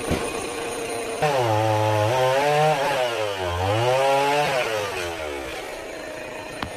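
Two-stroke chainsaw cutting through a coconut palm trunk. About a second in the engine speeds up, its pitch sags and recovers several times as the chain loads in the cut, and it drops back to a lower steady running near the end.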